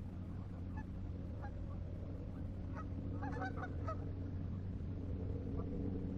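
Geese honking, a few scattered calls and then a bunch of them about three to four seconds in, over a steady low hum.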